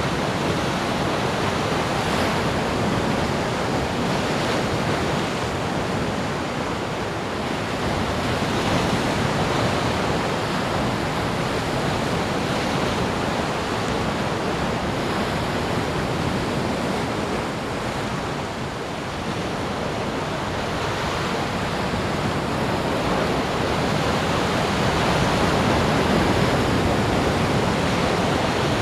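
Ocean surf washing onto a beach: a steady rush of breaking waves that swells and eases slowly, with a brief lull about two-thirds of the way through.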